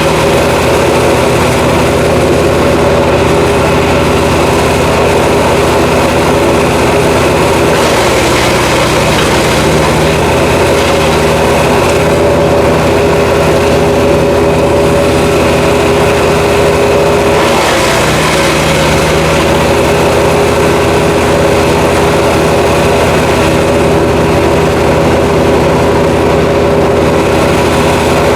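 Jansen GTS-1500 wood chipper's small gasoline engine running steadily, its note shifting slightly about eight seconds in and again a little past halfway.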